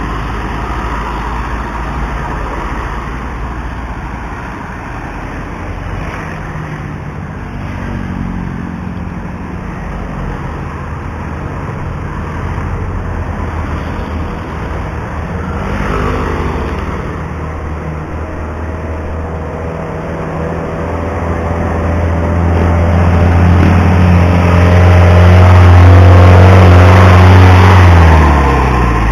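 Wind and road rush on the microphone while cycling. A motor vehicle's engine grows steadily louder from about a third of the way in and is loudest near the end. Then its pitch drops sharply as it passes.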